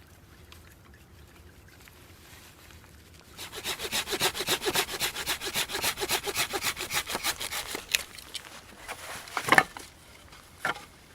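Hand saw cutting wood in fast, rapid back-and-forth strokes for about four seconds, followed by a sharp wooden knock and a smaller one near the end.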